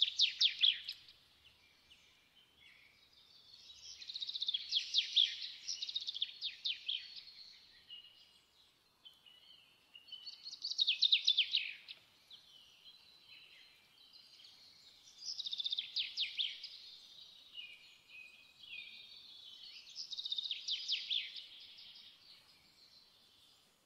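A songbird singing in repeated phrases of rapid, high chirps and trills, a burst about every five seconds with fainter twittering in between.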